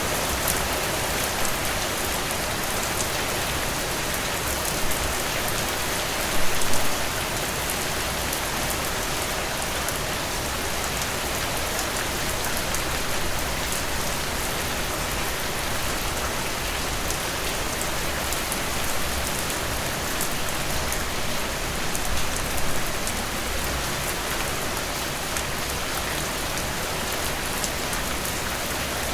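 Heavy rain falling steadily, a dense even hiss with the patter of drops on a surface; a few slightly louder splashes around 7 seconds in and again near 23 seconds.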